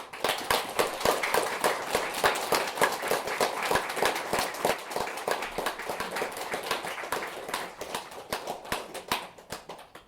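Audience applauding: dense clapping that starts suddenly, holds steady, then thins out to a few scattered claps near the end.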